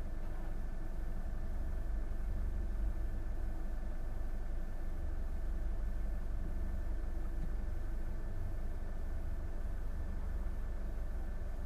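Boat engine running steadily: a low drone with a few steady hum tones above it.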